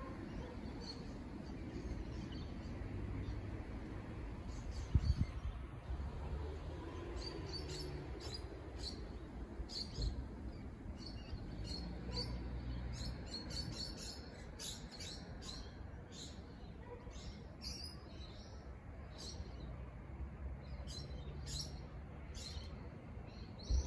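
Small birds chirping, short high calls repeated many times over a low steady background rumble, with a single short knock about five seconds in.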